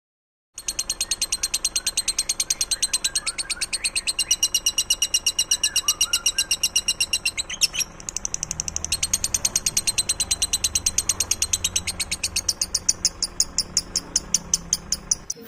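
A songbird's rapid, high-pitched trill: one short note repeated many times a second in an even, long run, briefly broken about halfway through, with fainter chirps underneath. It starts suddenly about half a second in.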